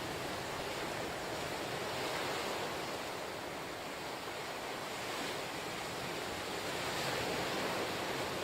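Ocean surf washing onto the shore in a steady rush, swelling gently as each wave breaks.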